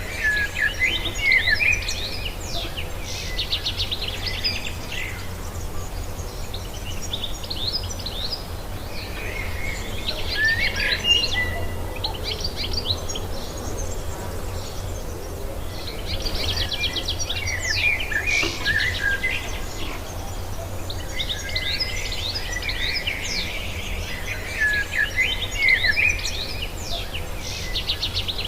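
A songbird singing in repeated bouts of rapid, jumbled chirps and trills, each a few seconds long, about every eight seconds, over a steady low hum.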